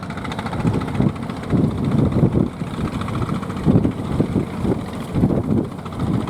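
Strong coastal wind buffeting the microphone: a loud, gusty low rumble that swells and eases every second or so.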